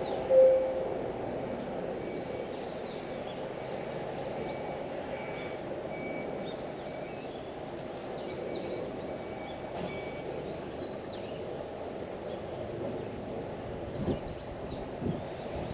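Steady outdoor background rumble, like distant traffic, with small birds chirping at intervals. A short clear note sounds about half a second in, and a few soft thumps come near the end.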